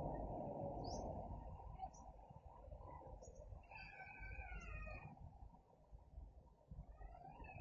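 Faint calls of small birds: short high chirps about once a second, and a longer wavering call around four to five seconds in, over a low steady background rumble.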